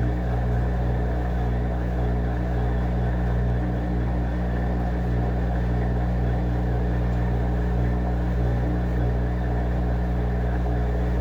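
Washing machine running, a steady deep hum with several constant tones that neither rises nor falls.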